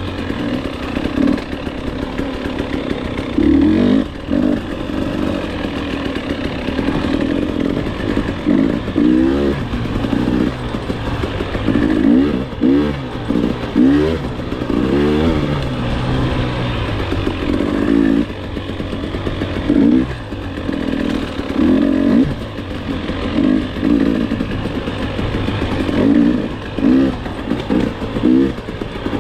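Enduro dirt bike engine being ridden hard, its pitch rising and falling over and over as the throttle opens and closes, with loud surges every second or two.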